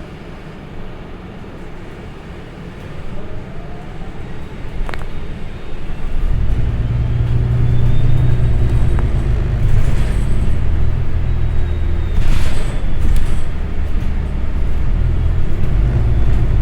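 City transit bus running, heard from inside. Its low engine rumble swells sharply about six seconds in as the bus picks up speed, then holds loud, with a faint rising whine and a few brief clicks and rattles over it.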